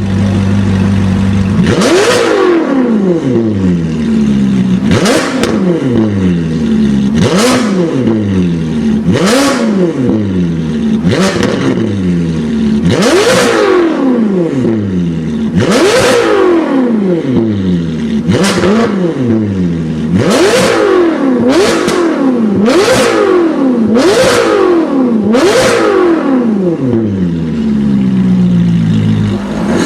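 Ferrari California's naturally aspirated V8 through a Kreissieg cat-back exhaust, revved about a dozen times from idle. Each rev shoots up quickly and falls back to a steady idle, a second or two apart, with the revs coming faster near the end.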